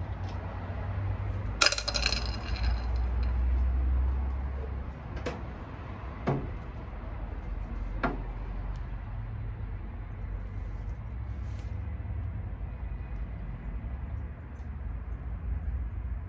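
Metal parts and tools clinking and knocking as a washing machine is dismantled: one loud ringing clink about two seconds in, then a few single sharp knocks, over a steady low rumble.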